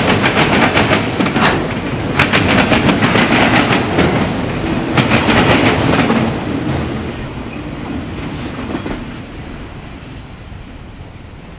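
Train cars rolling past, their wheels clicking rapidly over the rail joints, then the sound fades steadily from about six seconds in as the train moves away.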